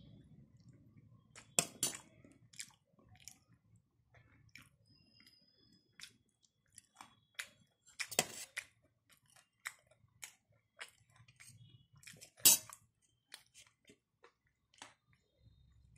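Close-up chewing and mouth sounds of someone eating chicken biryani: irregular soft clicks and smacks. A few much louder sharp clicks stand out, the loudest about twelve seconds in.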